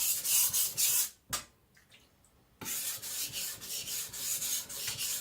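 Steel cleaver blade being stroked back and forth on a whetstone to thin the edge behind it, held nearly flat: a rhythmic, hissing scrape at about three to four strokes a second. About a second in, the strokes stop for a second and a half after a single tap, then resume.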